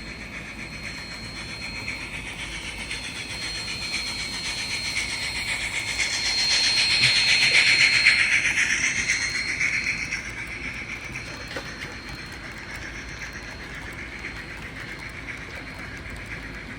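Model train rolling past on the layout: a steady run of wheels on rail with a thin, steady high whine. It grows louder to a peak about eight seconds in as it passes close, then fades.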